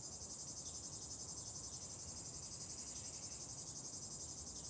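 Insects trilling: a steady, high-pitched, finely pulsing chorus.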